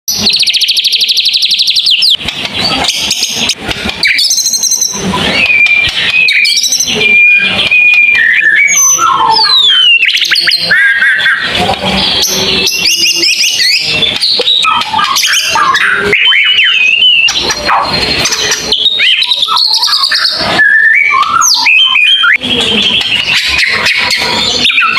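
White-rumped shama singing a long, varied song of loud whistled notes with rising and falling glides and quick phrases. It opens with a fast buzzy trill lasting about two seconds.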